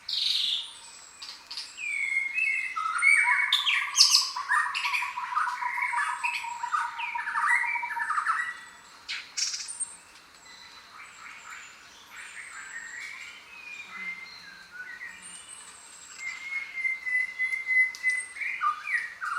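A chorus of jungle birds calling and singing over one another: chirps, squawks and whistles, with a rapid trill through the first half. It is busiest at the start, thins out in the middle, and picks up again near the end with a long, even call.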